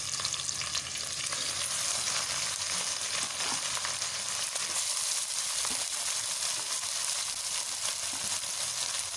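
Raw beef mince sizzling steadily as it goes into onions frying in hot ghee, with a wooden spoon stirring it around the pot.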